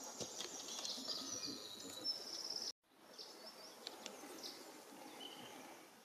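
Russet sparrows giving faint, short high chirps over a steady background hiss, with a brief break in the sound a little before halfway.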